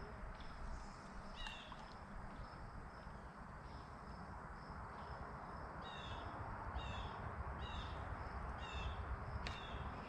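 A bird calling in short, falling chirps, a few at first and then about one a second from about six seconds in, over a low steady rumble; a single sharp click near the end.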